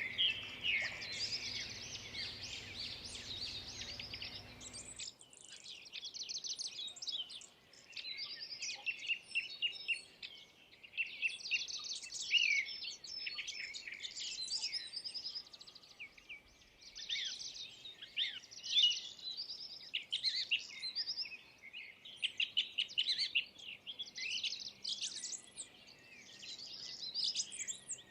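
Several small birds chirping and twittering in a busy chorus of quick, high calls. A low background rumble cuts off suddenly about five seconds in, while the chirping carries on.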